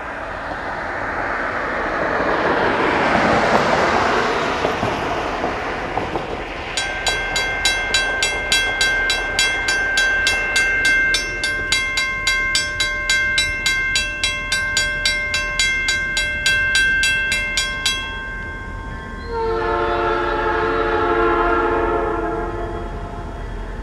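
Freight train rumbling past, then a bell ringing about twice a second for some ten seconds, then one long locomotive horn blast of several chime notes near the end.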